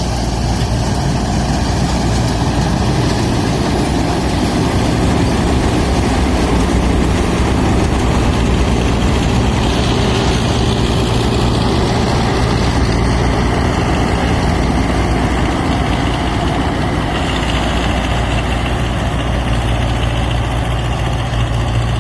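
Escorts Farmpower tractor's diesel engine running steadily under load while driving a straw reaper, a loud, even low hum with machinery noise over it.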